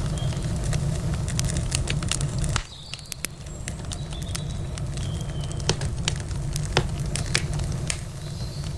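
Campfire crackling, with irregular sharp pops and snaps from the burning wood. A low rumble under it drops away suddenly about two and a half seconds in.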